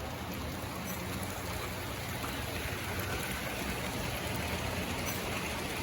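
Model train running along the layout track: a steady rolling rumble and hiss with a low motor hum, growing slightly louder.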